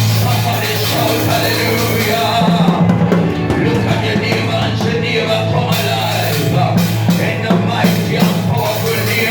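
Band music with a drum kit and a steady bass line; the drum strikes come in more sharply about two and a half seconds in.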